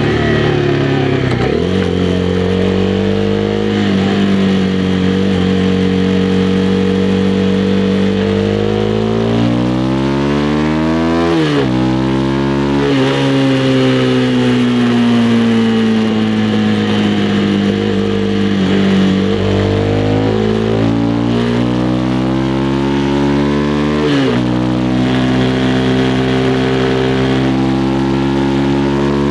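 Honda CB300R's single-cylinder engine on the move, the revs climbing and then dropping sharply at gear changes three times, with a long slow easing off in between.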